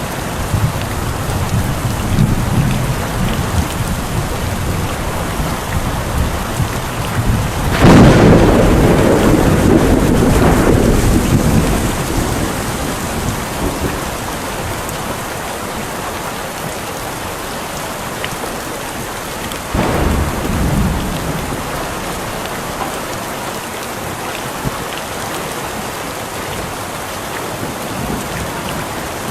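Steady rain in a thunderstorm, with a sudden loud thunderclap about eight seconds in that rumbles on for a few seconds, and a weaker clap of thunder around twenty seconds in.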